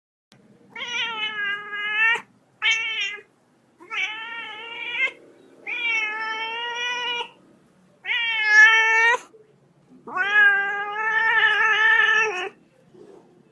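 A cat meowing six times in a row, each meow a drawn-out call of about a second with short pauses between, the last one the longest.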